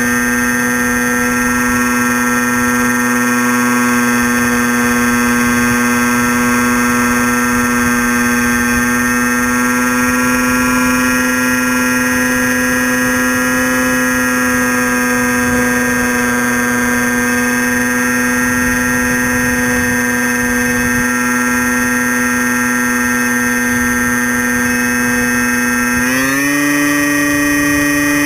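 Crashtesthobby Storm Chaser RC plane's motor and propeller, recorded by the onboard camera: a steady whine that creeps up slightly in pitch, then steps sharply higher near the end as the throttle is opened.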